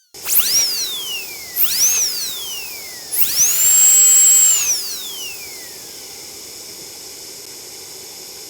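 High-speed dental drill whining: it spins up and winds straight back down twice in quick succession, then spins up a third time to a higher pitch, holds it for about a second and slowly winds down. A steady hiss is left behind, which cuts off suddenly near the end.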